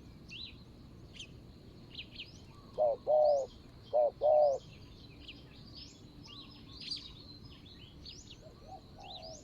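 A spotted dove cooing: two phrases, each a short note followed by a longer one, about three and four seconds in. Small birds chirp in high, short notes throughout.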